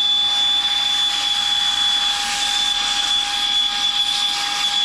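Saker 3-in-1 cordless handheld vacuum's brushless motor running on its low setting with the air-blowing nozzle fitted: a steady high whine over a rush of air.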